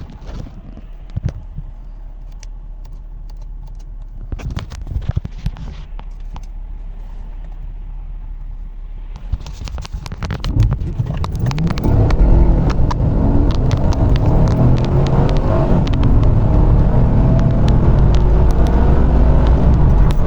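2011 Chevrolet Camaro SS's 6.2-litre V8 running at low load with a few clicks and knocks, then, about ten seconds in, going to full-throttle acceleration: the engine gets much louder and stays loud as the car accelerates hard.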